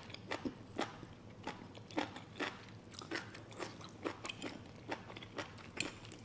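Close-miked chewing of a mouthful of spicy noodles: wet, smacking mouth clicks coming irregularly, a few per second.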